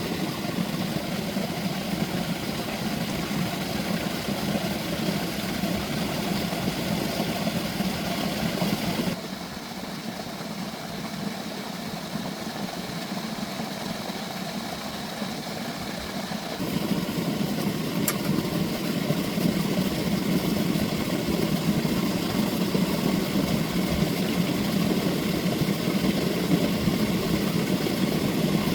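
Tractor engine running steadily. Its level drops suddenly about nine seconds in and comes back up about seventeen seconds in.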